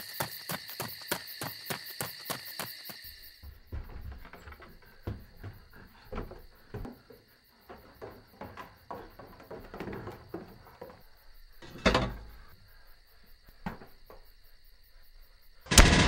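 Crickets chirping in a rapid, even pulse that stops about three and a half seconds in. Scattered soft knocks and thuds follow, with one louder thump about twelve seconds in, and a sudden loud burst of sound just before the end.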